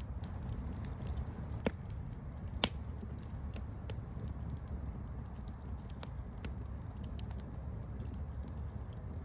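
Wood campfire burning with a steady low rustle and scattered small crackles, with two louder pops at about 1.7 and 2.6 seconds in.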